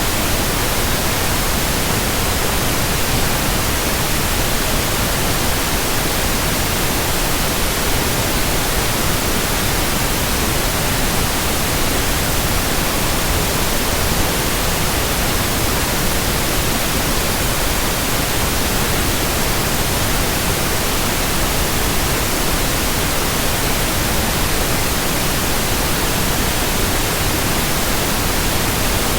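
Steady, even hiss of white noise that stays the same throughout, with no hum or rhythm in it.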